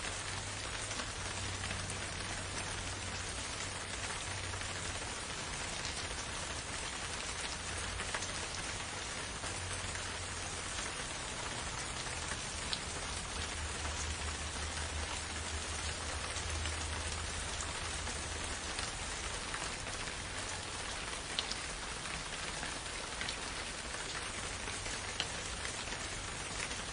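Steady rain falling, an even hiss with a few sharper single drop hits, over a soft low rumble.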